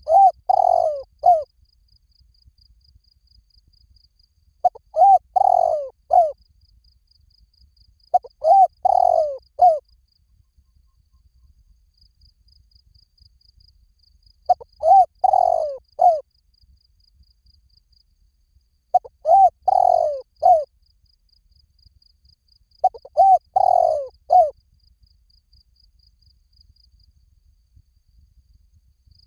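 Spotted dove cooing: six phrases of a short coo, a longer rolling coo and a short closing note, about every four to six seconds. It is the male's call used as a decoy to lure doves.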